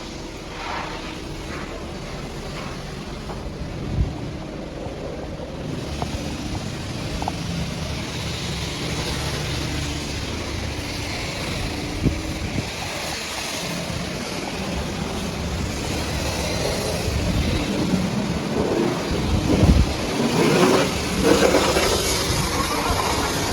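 High-pressure water jet from a pressure washer hitting a muddy truck. The spray hiss starts about six seconds in and grows louder toward the end, over a low machine hum, with a couple of sharp knocks.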